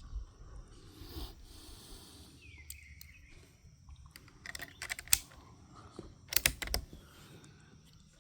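Clusters of sharp clicks from handling the Brno Model 1 .22 rifle and its scope, one burst around five seconds in and another at about six and a half seconds. A bird gives a short falling call once, a little before the first burst.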